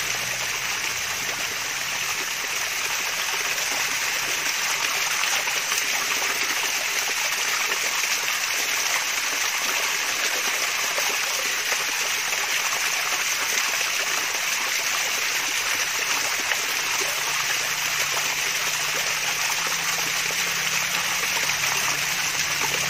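Small waterfall with water splashing and trickling steadily: a continuous, even rush of running water, strongest in its hissy upper range.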